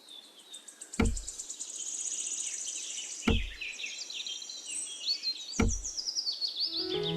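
Birds chirping and twittering in quick, overlapping calls, with three dull knocks a little over two seconds apart. Music with sustained notes comes in near the end.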